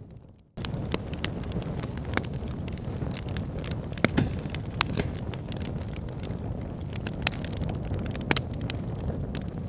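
Bonfire burning: frequent sharp crackles and pops from the burning wood over a low, steady rumble of flames. The sound drops out almost completely for about half a second at the very start, then comes back.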